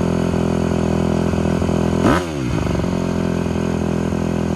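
Honda CRF150R dirt bike's single-cylinder four-stroke engine running steadily at idle, with one quick throttle blip about two seconds in. The bike has just been started after sitting unused for a long time.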